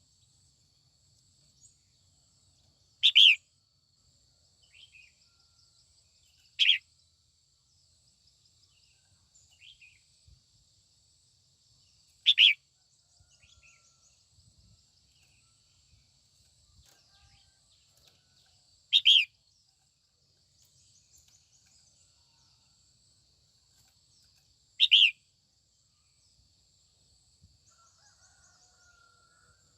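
Female red-whiskered bulbul giving short, sharp calls, five of them several seconds apart, with faint twittering between; a hen's morning calls of the kind used to stir up a male.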